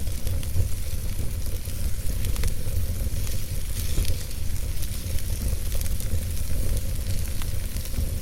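Wood fire burning in a fireplace: a steady low rumble of flames under a hiss, with many small crackles and pops scattered irregularly throughout.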